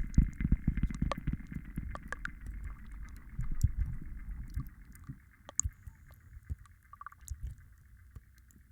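Layered soft ASMR trigger sounds: dense, muffled low tapping and rubbing over a steady hiss, with scattered small clicks. The layers fade down about halfway through.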